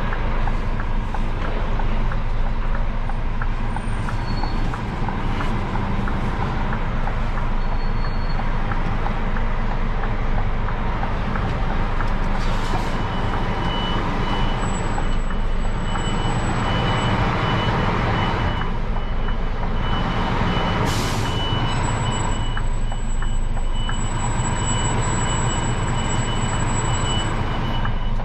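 Scania lorry's diesel engine idling steadily while the truck stands waiting, with a few swells of hissing noise partway through.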